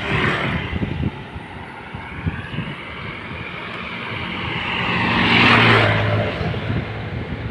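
A vehicle passing close by, its whine and engine growing louder, peaking about five and a half seconds in, then fading. Underneath is the steady buffeting rumble of wind on the microphone of a moving rider.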